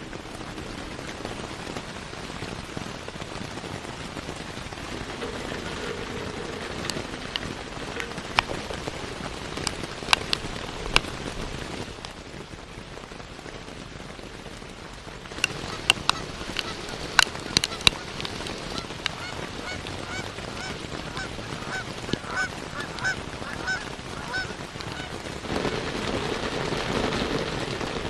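Geese honking in a quick series of short calls, over a steady hiss like rain, with scattered sharp clicks.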